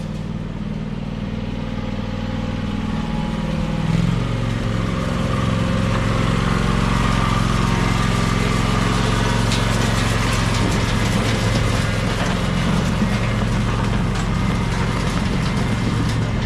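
Riding lawn tractor's engine running steadily, speeding up about four seconds in and then holding at the higher speed.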